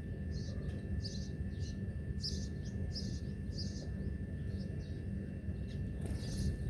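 Small birds chirping: short, high chirps repeated about once or twice a second over a steady low background rumble.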